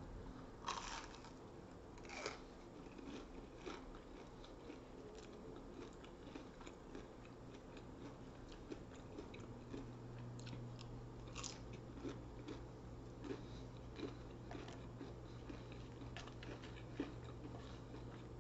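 A person biting and chewing food close to the microphone, with sharp crunches from crisp bites scattered among quieter chewing. A low steady hum comes in about halfway through.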